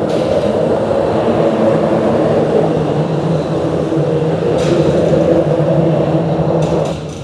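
Loud, steady rumble of vehicles passing on a bridge, with a constant low drone under it; it dips briefly near the end.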